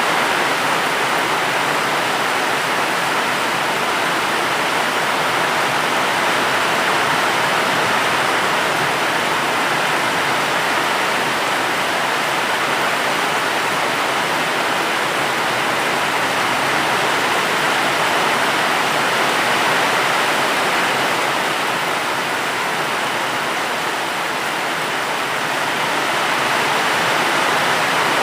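Steady, dense rain: an even hiss with no separate drops standing out, easing slightly a few seconds before the end.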